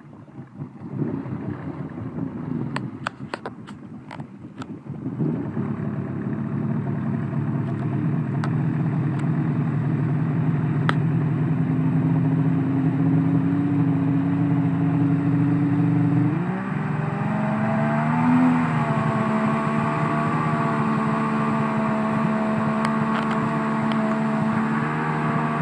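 Kawasaki STX-1100 jet ski's two-stroke three-cylinder engine. After a few quieter seconds with some sharp clattering taps, it picks up and runs steadily, its pitch shifting about two-thirds of the way through.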